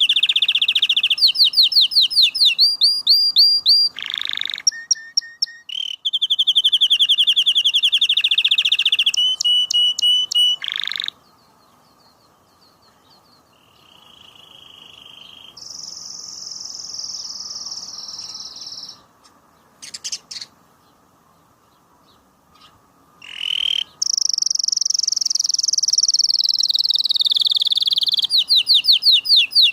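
Domestic canary singing: long rapid trills and runs of quickly repeated notes. It goes quieter for about ten seconds in the middle with only a few fainter phrases, then comes back with a loud trill that slides down in pitch.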